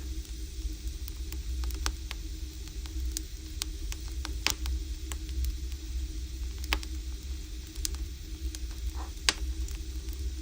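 Firewood burning in an agungi, a traditional Korean wood-fired furnace: irregular sharp crackles and pops over a low steady rumble, with two louder pops about four and a half and nine seconds in.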